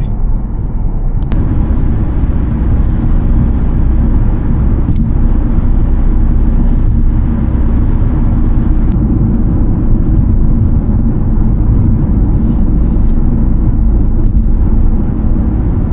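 Steady low rumble of a Mini car driving, engine and tyre noise heard from inside the car, with a few faint ticks.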